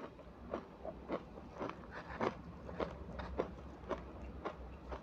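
Close-miked crunching of matcha ice cubes between the teeth, a sharp crunch about twice a second as the ice is bitten and chewed.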